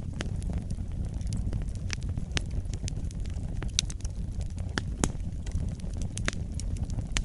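Wood fire burning in a fireplace: a steady low rumble of the flames with irregular sharp crackles and pops, the loudest pop about five seconds in.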